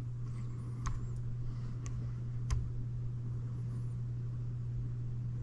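Three faint clicks of a wall thermostat's buttons being pressed, about a second apart, over a steady low hum.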